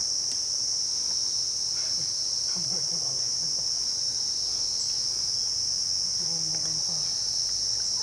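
Insect chorus: a continuous, steady high-pitched buzz, with faint voices far under it.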